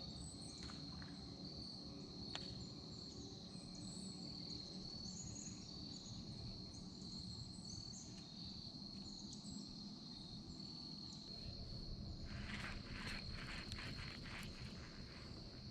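Faint, steady high-pitched insect chorus over a low outdoor rumble, with small high chirps now and then. Near the end come a few quick rustling clicks.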